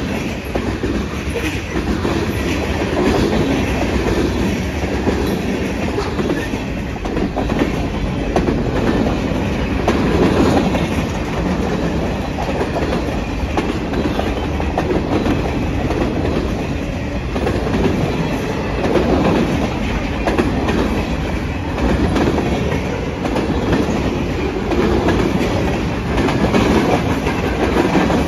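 A freight train's cars rolling past at trackside: steel wheels running loud and steady on the rails, swelling and easing every few seconds as the cars go by.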